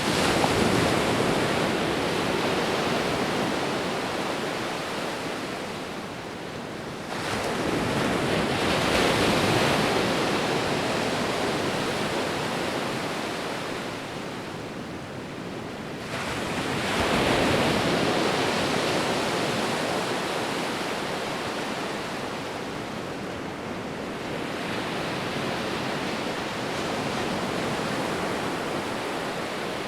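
Sea waves breaking and washing on a shore, in repeated surges that swell and ebb, the biggest about a second in, around nine seconds in and around seventeen seconds in.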